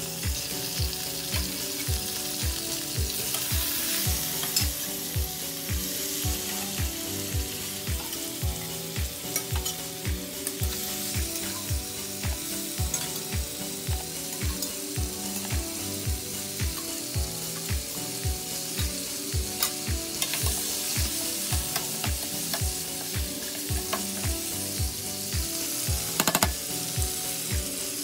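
Pork baby back ribs sizzling as they fry in a pan of tomato and onion, turned with metal tongs, with a sharp clank near the end. Background music with a steady beat plays underneath.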